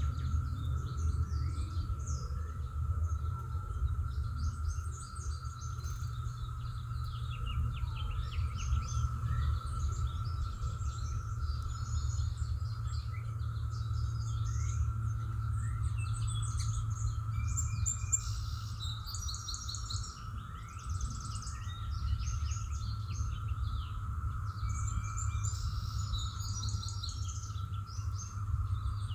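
Background songbirds chirping and singing in short, scattered phrases, over a constant low rumble and a steady high-pitched hum.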